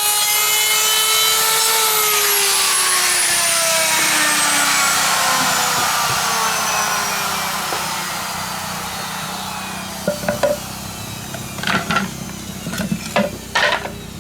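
A power saw's motor running at full speed, then switched off about two seconds in and winding down in a long, falling whine. Several knocks come near the end.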